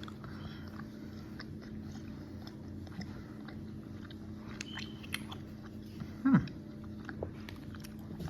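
A person chewing soft gummy candy close to the microphone, with faint wet mouth clicks and smacks over a steady low hum. About six seconds in, a short, louder voiced sound drops in pitch.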